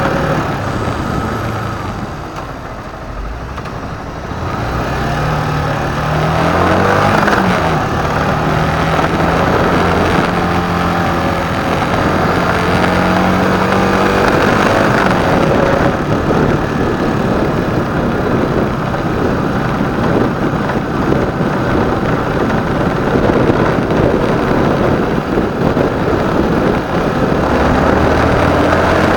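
Motorcycle engine running while riding in city traffic, over a steady rush of noise; the engine pitch rises about six seconds in, holds steady for several seconds, then drops back.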